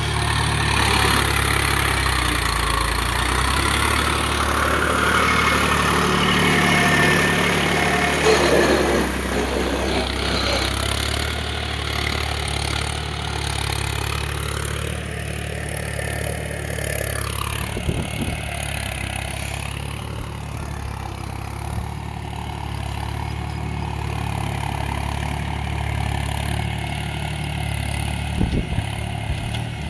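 Engine of a homemade mini tractor running steadily, with a few sharp knocks about eighteen seconds in and again near the end.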